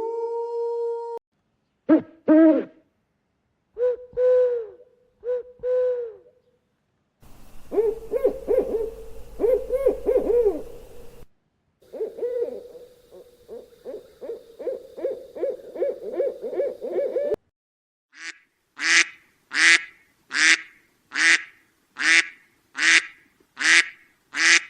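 A sequence of cut-together animal calls: short pitched hooting notes, then a fast trill of rapidly repeated notes lasting several seconds, then a run of about a dozen loud, sharp calls, a little under two a second.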